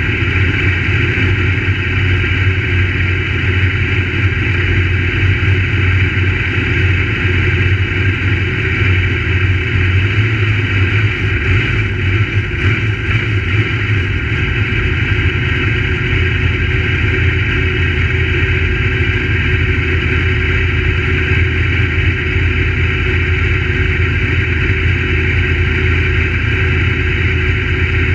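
Crate Late Model dirt-track race cars' crate V8 engines running at a steady, loud drone, with no clear pass-by swells.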